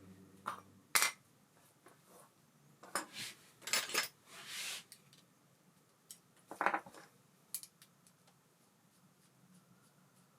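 Scattered clinks and clicks of small metal parts and tools being handled on a workbench, with a short rustle about four seconds in.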